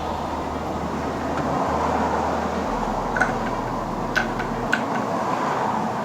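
Steady hum of road traffic, with a few light metallic clicks from about three to five seconds in, as metal parts of a U-joint are handled.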